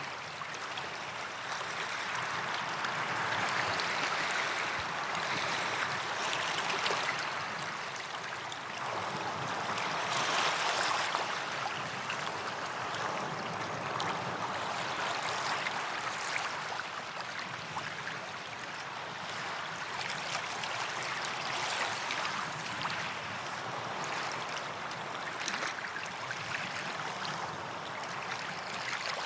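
Small sea waves washing onto a sandy beach, a continuous wash of water that swells and eases every few seconds.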